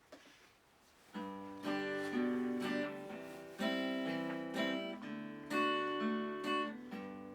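Acoustic guitar strumming chords, starting about a second in, each chord struck roughly once a second and left to ring: an instrumental introduction before the singing.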